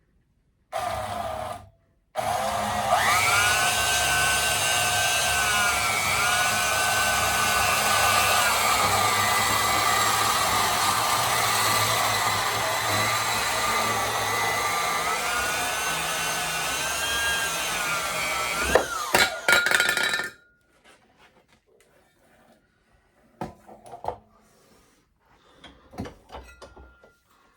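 Electric power cutting tool sawing through a steel steering column part: a brief start about a second in, then a steady run of about eighteen seconds, its motor whine sagging and recovering as the blade bites, cutting off about twenty seconds in. A few light clinks of the metal being handled follow.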